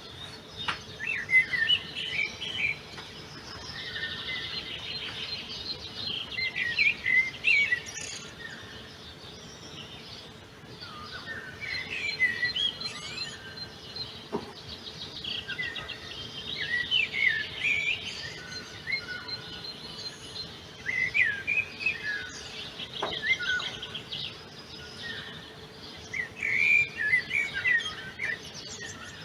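Songbirds singing: phrases of quick chirping notes and fast trills that repeat every few seconds, some of them overlapping.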